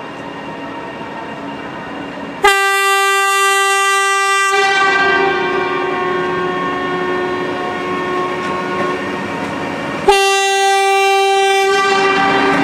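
Locomotive air horn sounding two long, single-pitched blasts of about two seconds each, several seconds apart, over the steady running noise of a train.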